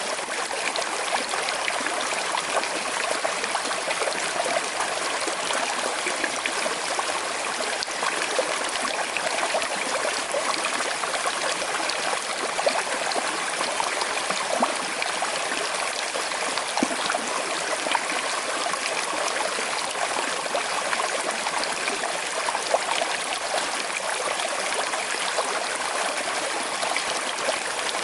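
Small, slow-flowing river running over stones: a steady rush of water with constant small trickles and gurgles.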